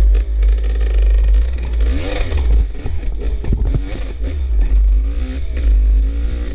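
Dirt bike engine revving up and down as it is ridden along a rough trail, with heavy wind rumble on the microphone and occasional knocks and clatter.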